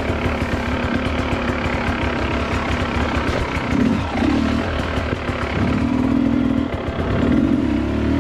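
Dirt bike engine running at low trail speed, with the throttle opened in short bursts a few times, strongest near the end.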